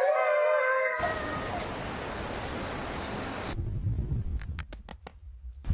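An animal's wavering call with several overtones for about the first second, cut off abruptly, followed by a hiss of steady background noise with high chirping, then a few sharp clicks near the end.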